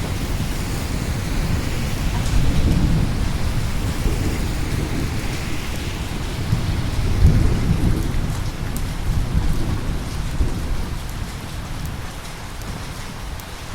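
Rolling thunder over steady rain. The rumble swells about two seconds in and again around seven seconds, then dies away near the end while the rain hiss goes on.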